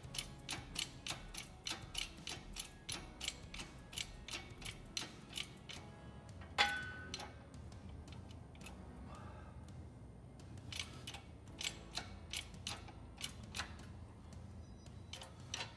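Ratchet wrench clicking in even runs of about three clicks a second as nuts are tightened to squeeze a new brass bushing from both ends, with one louder ringing metal clink about six and a half seconds in.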